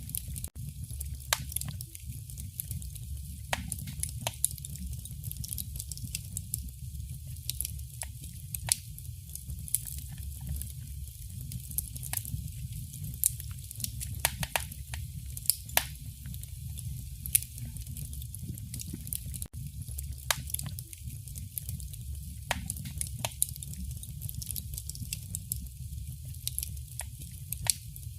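Wood fire in a fireplace crackling: irregular sharp snaps and pops over a steady low rumble of burning.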